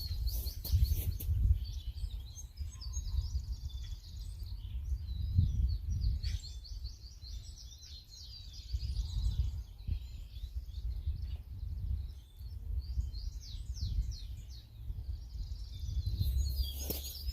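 Several songbirds singing, with many quick chirps and trills overlapping, over a low rumble of wind on the microphone.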